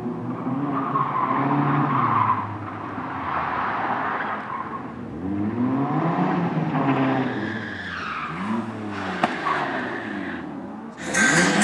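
Racing car engine revving up through the gears, its pitch climbing and dropping back at each shift, with tyres skidding. Near the end a sudden loud rush of harsh noise cuts in.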